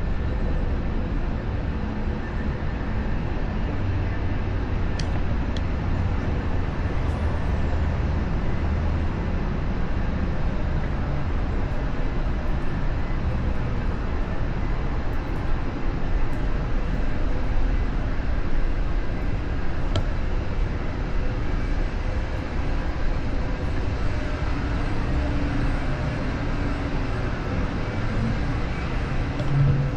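Steady low rumble of wind and road noise from riding a Onewheel electric board along city streets, with a few faint clicks.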